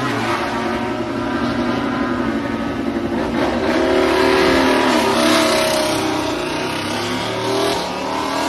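MotoGP racing motorcycle engines running at high revs on track, their pitch climbing and falling as the bikes accelerate and shift, rising about four seconds in, dipping, and rising again near the end.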